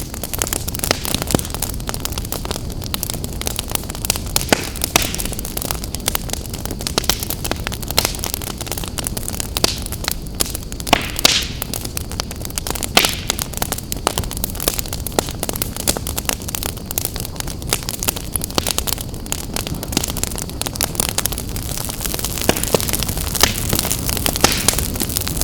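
Wood fire burning in a fireplace, with steady crackling and many sharp pops over a low rushing of the flames.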